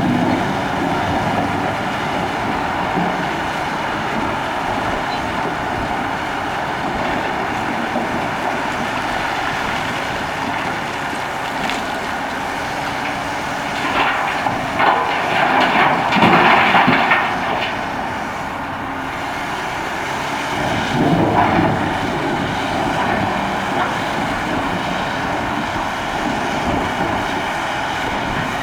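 Cat 6015B hydraulic mining excavator running steadily at work, growing louder twice: for a few seconds around the middle and briefly again a few seconds later.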